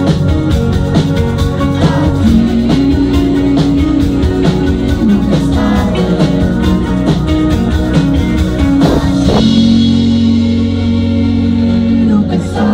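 Rock band playing with guitars and a steady drum beat. About nine seconds in the drums stop and a held chord rings on.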